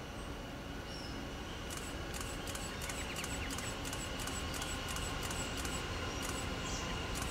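A distant train, heard as a low steady rumble that slowly grows louder, with a thin steady high tone and faint, evenly spaced high clicks from about two seconds in.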